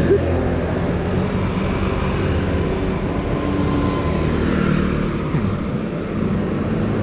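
Steady motor-vehicle engine noise, a continuous low hum of traffic.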